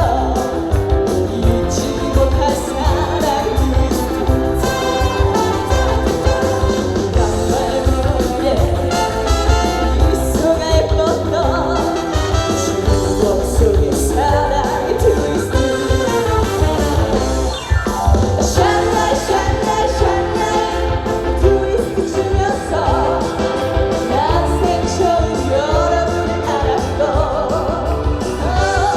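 A woman singing a trot song live through a PA system over amplified backing music with a steady beat.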